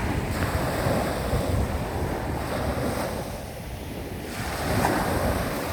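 Surf washing onto a beach, with wind buffeting the microphone in a gusty low rumble.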